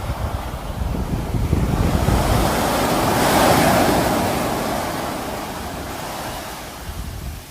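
Sea surf: a wave builds, breaks with a rush of foam peaking about three and a half seconds in, then washes out and fades, with wind rumbling on the microphone underneath.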